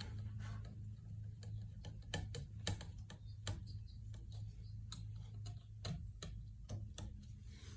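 Scattered light clicks at an irregular pace, about two a second, over a steady low hum.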